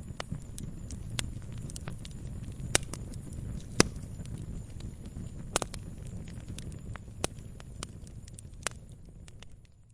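Wood fire burning in a fireplace: a steady low rumble of flames with sharp crackles and pops, the loudest about four seconds in. The sound fades down near the end.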